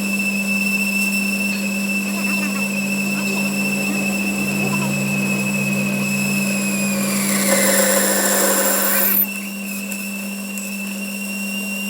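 A workshop machine running with a steady low hum and a high whine. About seven seconds in, a louder, harsher noise joins it and the whine dips, then the noise cuts off suddenly about two seconds later.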